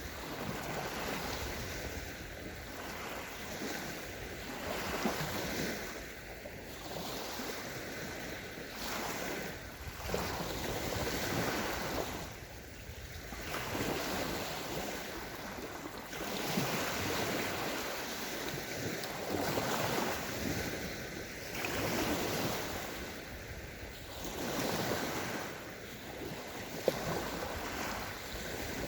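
Small waves breaking and washing over a sandy shore, the surf swelling and ebbing every couple of seconds, with wind on the microphone.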